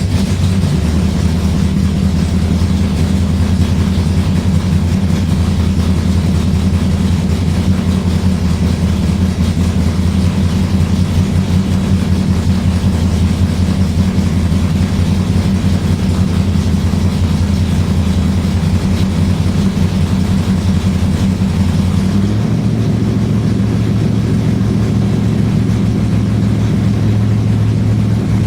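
Car engine idling steadily on a cold start after sitting a long time, with a deep, even drone; about 22 seconds in the idle steps up to a slightly higher pitch.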